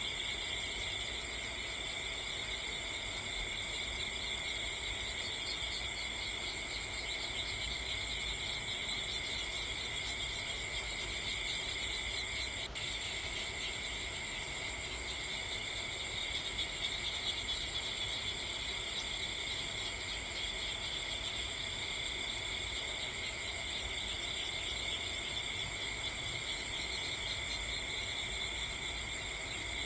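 Steady chorus of insects trilling at several high pitches without a break, over a low background hum, with one faint click about halfway through.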